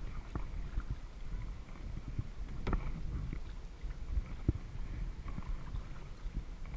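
Kayak paddling: irregular splashes and knocks from the paddle strokes, the loudest a little under three seconds in, over a steady low rumble.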